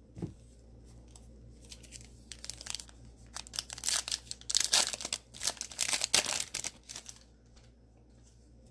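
Cellophane wrapper of a trading-card cello pack being torn open and crinkled, in a run of irregular rustling bursts that is busiest in the middle.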